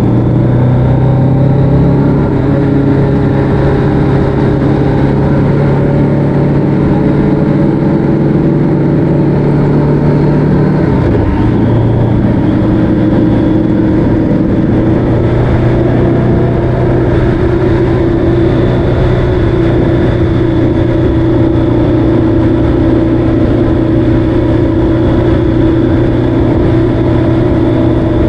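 Vehicle engine running steadily at road speed, with low wind and road rumble. The engine note dips briefly about eleven seconds in, then steadies again.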